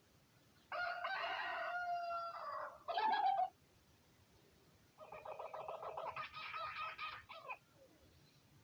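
Two long, pitched animal calls, the first lasting about three seconds and the second starting about two seconds later and lasting nearly three seconds.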